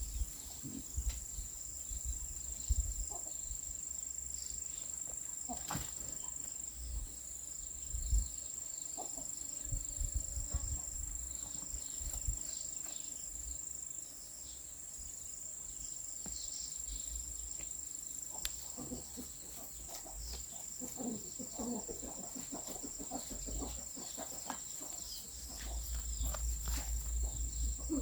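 Insects chirping and buzzing in a steady high drone, one pulsing about once a second, with scattered knocks and thumps of garden work.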